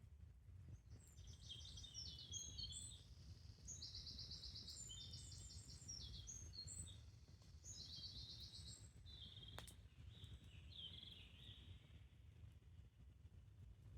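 Birds singing in short, rapid trilled phrases repeated every second or two, over a faint steady low rumble, with one sharp click just under ten seconds in.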